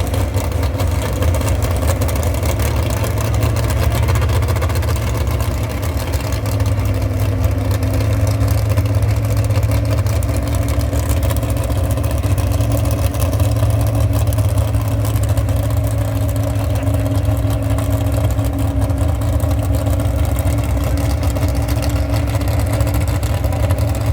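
Tractor engine running loudly at a fairly steady pitch.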